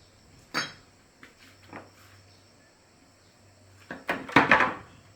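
A few sharp knocks and clatters of hard objects, one about half a second in and a louder cluster of several near the end.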